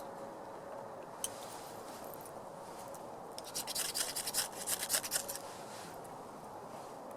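A quick run of about ten sharp scraping strokes lasting about two seconds, starting about three and a half seconds in, with a single faint click about a second in.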